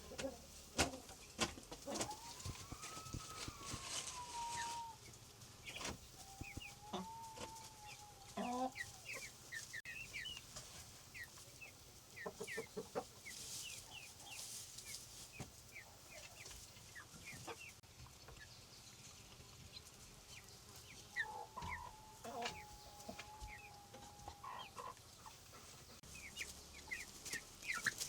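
Farmyard chickens: a rooster crows three times, long drawn-out calls about two, six and twenty-one seconds in, amid clucking and many short high chirps.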